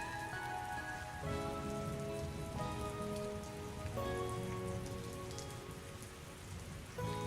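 Steady rain falling, with scattered raindrop patter, over soft, slow instrumental music whose held chords change every few seconds.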